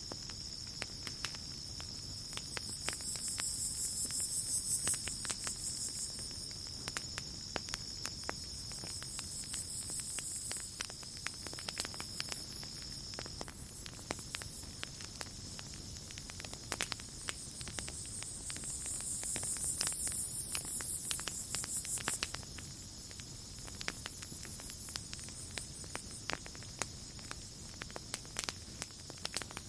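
Campfire crackling with frequent sharp pops over a low rush, beneath a chorus of night insects: a steady high insect tone that stops about halfway, and a louder high buzzing that swells and fades twice.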